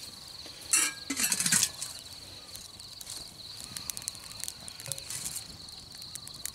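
Insects, crickets, trilling steadily at one high pitch, with a short louder noisy sound about a second in and a few faint clicks.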